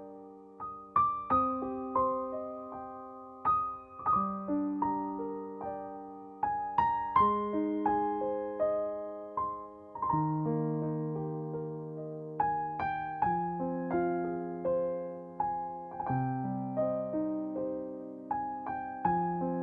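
Gentle solo piano music: slow broken chords, each note struck and left to ring out.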